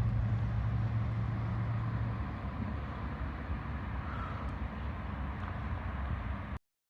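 Truck engine running steadily with a low rumble, with a held low hum through the first couple of seconds; the sound cuts off abruptly near the end.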